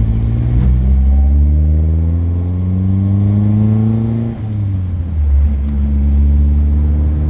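Classic car engine accelerating hard through a gear, heard from inside the cabin. Its pitch climbs steadily for about four seconds, drops at a gear change, then climbs again as it pulls in the next gear.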